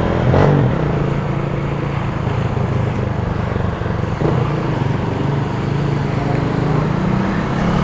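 Motorcycle engine running at a steady cruise on a wet road, under a constant rush of wind and road noise.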